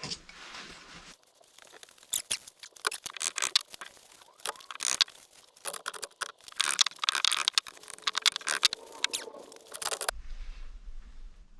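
Rapid clicks, scrapes and squeaks of metal engine parts and hand tools being worked during an engine strip-down. They start about a second in and cut off suddenly near the end, leaving a low hum.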